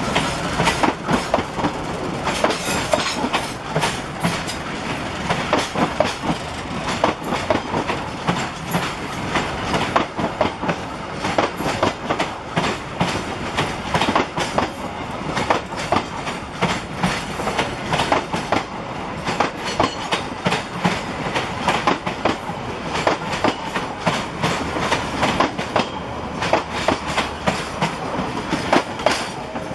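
Passenger train coaches rolling past close by: steel wheels clacking over rail joints in a continuous rapid clatter, over a steady rumble of the running gear.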